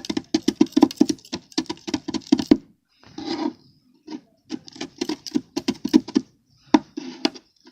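Quick repeated tapping and chopping on a rolled-ice-cream plate, crushing Oreo cookies into small pieces, about five or six taps a second in two runs with a short pause between, broken by two brief scrapes.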